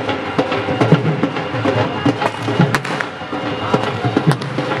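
Wedding band music: a dhol drum beating a steady rhythm under a held melody line. Two sharp cracks cut through it, near the middle and near the end.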